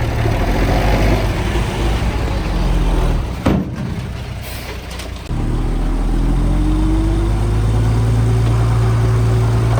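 Heavy diesel engine of earthmoving machinery running. A brief sharp sound comes about three and a half seconds in. About five seconds in the sound jumps suddenly louder into a steady engine note that slowly rises in pitch.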